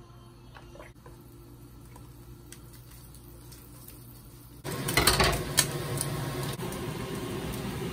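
Slices of Spam frying in an oiled nonstick frying pan. It is quiet at first with a few faint clicks. About halfway through a loud burst of sizzling and crackling starts, then settles into a steady sizzle.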